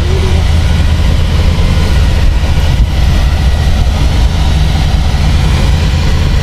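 Car engine idling with a loud, steady, deep rumble.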